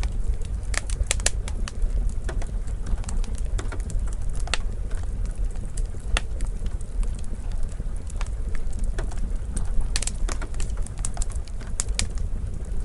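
Wood fire in a fireplace crackling, with irregular sharp pops and snaps over a steady low rumble, a quick flurry of pops about ten seconds in.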